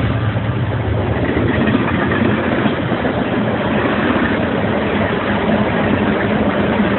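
Freight train passing close by: the low diesel drone of the BNSF locomotives weakens over the first couple of seconds as the loaded oil tank cars roll past with a steady noise of steel wheels on rails.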